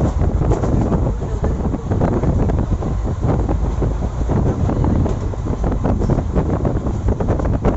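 A passenger train running at speed: a steady low rumble with irregular rattles and clatter, and wind buffeting the microphone.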